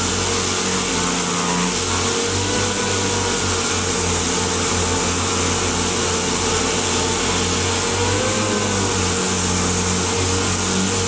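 A small motor running steadily with an even whirring hum that wavers slightly in pitch.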